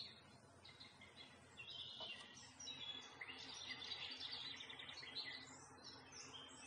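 Faint birdsong: several birds chirping and singing in short high phrases, one after another and overlapping, over a faint steady background noise.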